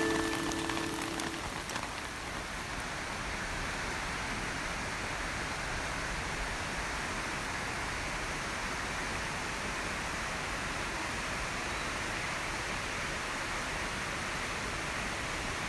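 Steady rain hiss with no pause or change. The last notes of music fade out in the first second or so.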